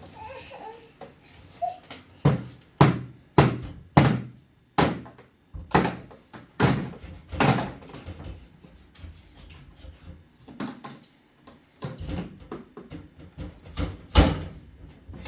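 A series of heavy thuds: a quick run of loud knocks about every half second, then more spaced ones, with a last loud thud near the end.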